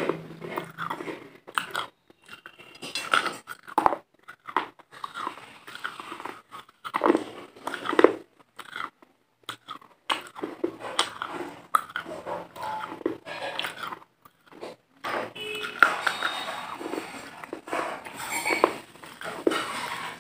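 Close-miked biting and crunchy chewing of a brittle food, with irregular crunches throughout.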